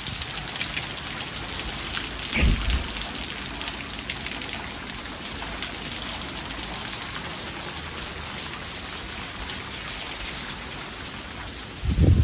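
Heavy rain from a hurricane falling steadily, a dense even hiss. A short low rumble comes about two seconds in and a louder one near the end.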